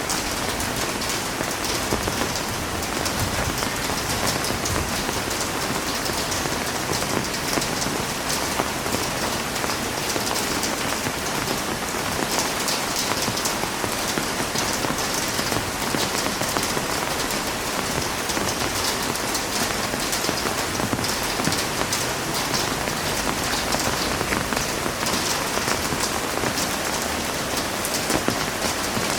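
Heavy rain falling steadily, a dense hiss of drops striking a surface with many small patters, unchanging throughout.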